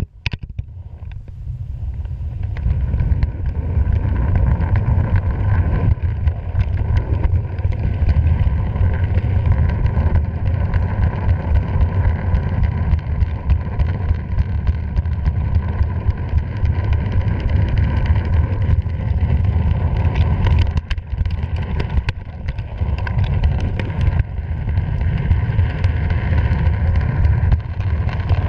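Freight train running, heard from a camera mounted on board: a loud, steady low rumble of the train in motion with wind buffeting the microphone, building up over the first few seconds.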